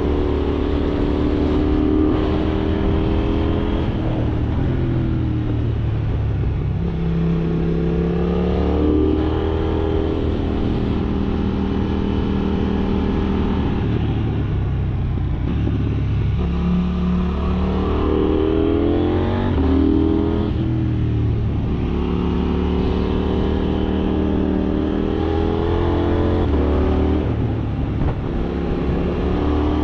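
KTM 790 Duke's parallel-twin engine heard from on board, revving up and easing off through the gears. Its pitch rises and falls several times as the rider accelerates, shifts and rolls off the throttle.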